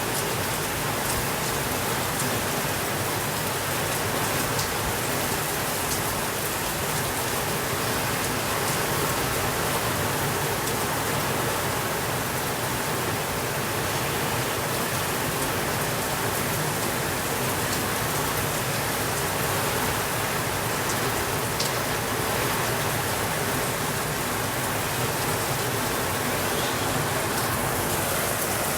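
Steady rainfall: an even, unbroken hiss of rain with a few faint individual drop ticks scattered through it.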